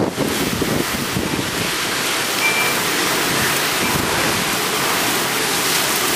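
Heavy wind-driven rain pouring down in a severe thunderstorm, a loud, steady rush, with gusts of wind buffeting the microphone, strongest in the first second or two.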